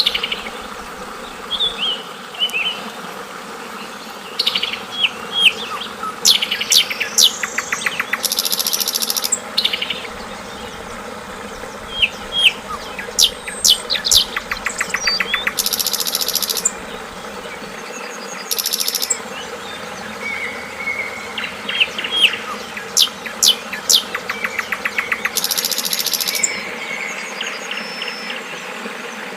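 Yellow-vented bulbul (trucukan) giving short, sharp chirps and whistled notes again and again over the steady rush of flowing water, with several brief high buzzy trills.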